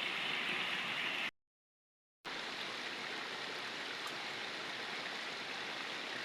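Steady rush of flowing stream water. It drops out to dead silence for about a second just over a second in, then resumes.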